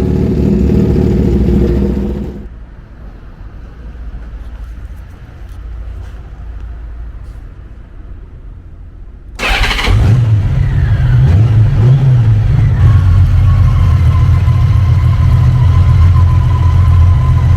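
Music ends about two seconds in. After a quieter stretch, the Honda Valkyrie Rune's 1800cc flat-six engine starts suddenly about nine and a half seconds in. Its pitch wavers briefly, then it settles into a steady low idle.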